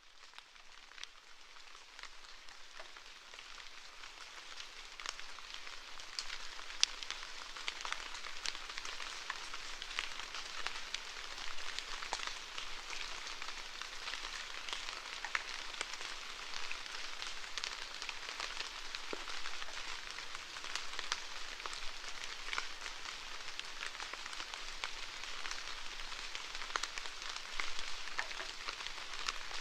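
Rain falling steadily: a dense hiss scattered with many separate drop hits. It fades in from silence over the first few seconds.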